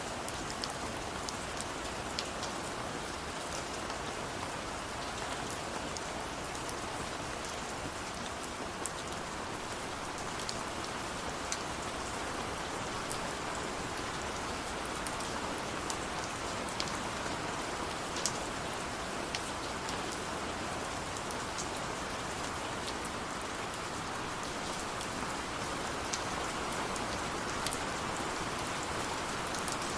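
Steady rain falling, a continuous hiss with many individual drops ticking and pattering on a surface.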